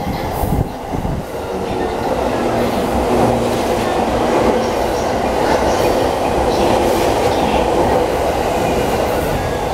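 JR East 651 series electric train passing through a station at speed without stopping: a steady running rumble of its wheels on the rails, swelling about a second in as the cars reach the platform and then holding.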